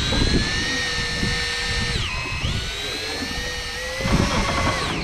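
Electric fishing reel winding in line, its motor whining steadily. About two seconds in and again near the end the whine drops sharply in pitch and then climbs back, as the motor bogs down under the load of the fish.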